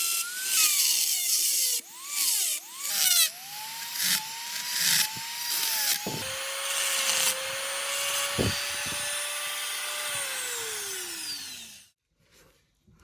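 A small handheld power tool motor running against rusty metal with a hissing, abrasive scrape. Its pitch dips and recovers as it is pressed into the work and eased off. Near the end it spins down with a falling whine and stops.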